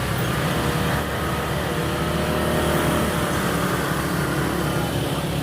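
Motorbikes running close by in slow, crowded street traffic: a steady engine hum over general street noise.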